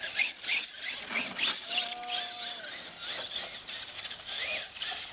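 Radio-controlled monster truck motor revving in short bursts, with a whine that holds steady for a moment near the middle and rises and falls near the end.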